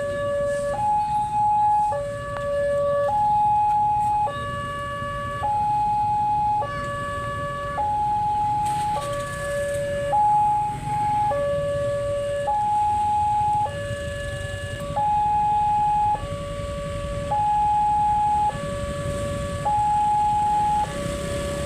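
Railway level crossing's electronic warning alarm sounding, a steady two-tone high-low signal with each tone held about a second, over a low rumble.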